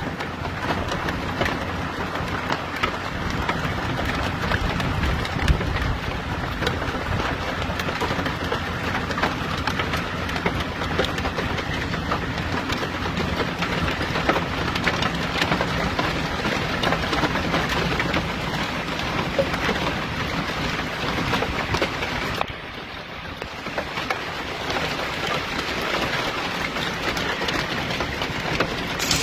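Hail and heavy rain pelting down, a dense, continuous clatter of countless small impacts, easing for about a second roughly three-quarters of the way through.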